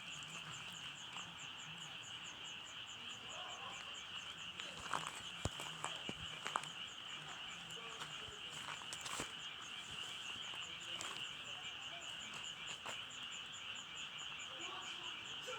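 Frogs calling in a steady chorus, with a fast, regular pulsing trill over it and a few sharp clicks about halfway through.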